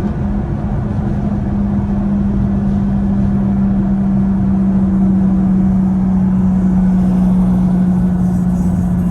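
BMW 440i's turbocharged B58 inline-six running at a steady cruise, a held droning note over road and tyre rumble, the note dropping slightly near the end.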